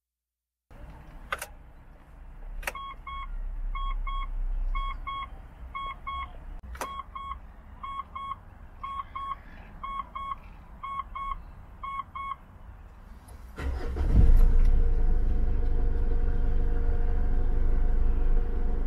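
Mitsubishi Pajero being started: a few sharp clicks, then a dashboard warning chime beeping in quick pairs for about ten seconds. Near the end the engine cranks, catches, and settles into a steady idle.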